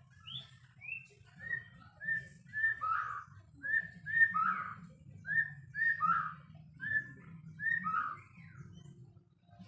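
White-rumped shama (murai batu) singing: two falling whistles, then a run of short, clear whistled phrases, each a high note dropping into a lower swooping one.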